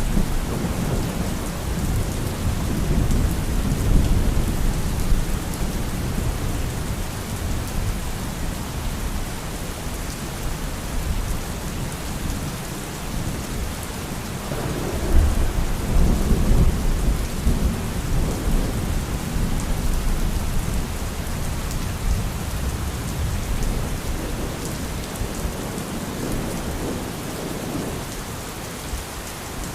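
Steady rain falling with rolling thunder: a low rumble fades out at the start and another swells up about halfway through and slowly dies away.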